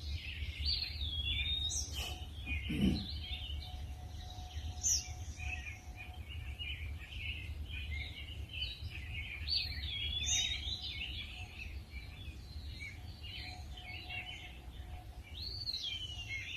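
Several small birds chirping and calling, with a slurred whistle that slides up and then down, repeated three times. A low steady rumble runs beneath.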